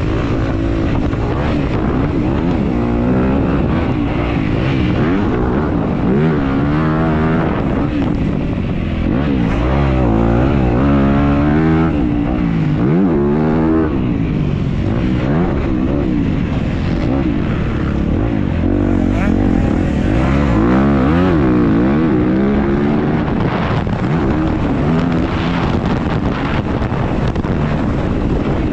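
Dirt bike engine racing around a motocross track, heard close up from an onboard camera, its pitch rising and falling again and again as the rider opens and closes the throttle and shifts through the gears.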